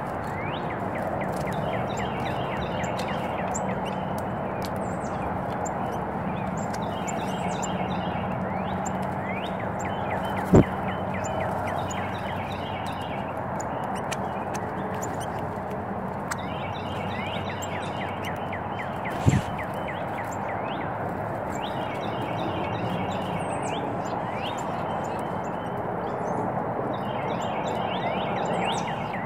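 Small birds chirping and twittering again and again over a steady background hiss. Two sharp knocks come about a third and about two thirds of the way through.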